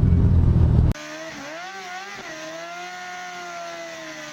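Dodge Neon SRT-4 turbocharged four-cylinder and road noise heard from inside the car during an autocross run, cutting off abruptly about a second in. It is followed by a much quieter whining tone that wavers in pitch briefly and then holds steady.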